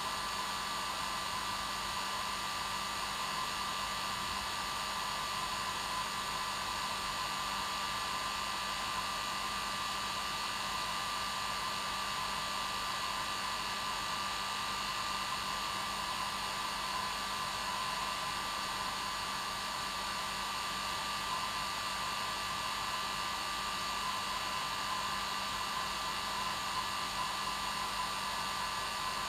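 Electric hair dryer running steadily on its normal setting: an even blowing rush with a steady hum and a whine near the middle of the range, without any change.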